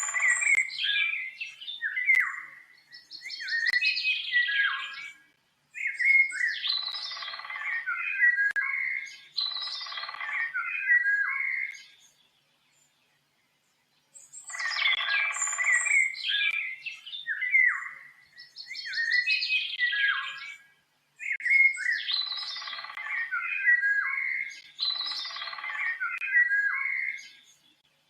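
A songbird singing a long run of varied, rapid chirping phrases in several bouts. There is a short pause about twelve seconds in, after which the same song sequence repeats exactly, as a looped recording.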